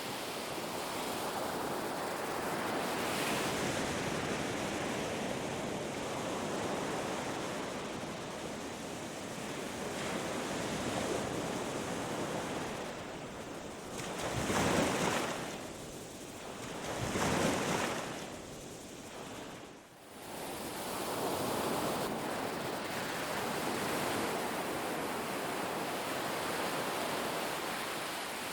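Ocean waves breaking and washing up a beach, a continuous rushing surf. Two waves crash louder about halfway through, and a brief lull follows before the wash builds again.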